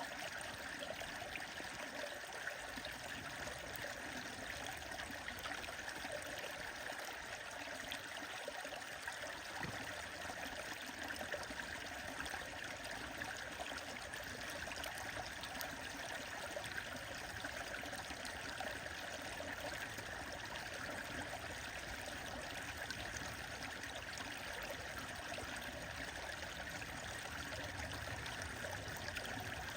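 A stream flowing steadily, an even rush of running water that does not change.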